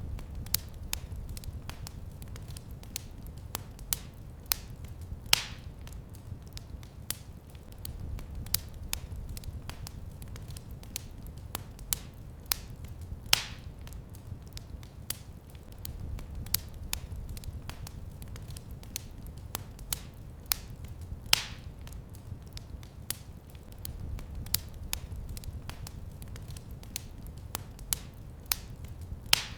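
Fireplace fire crackling: a steady low rumble with frequent small sharp snaps and a louder pop about every eight seconds.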